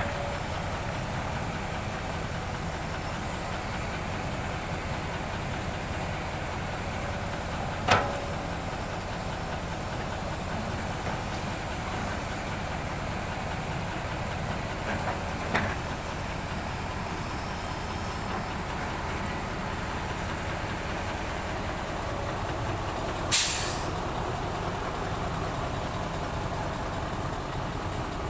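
Heavy diesel machinery running steadily, with a sharp clank about eight seconds in, a smaller knock around the middle, and a short hiss near the end.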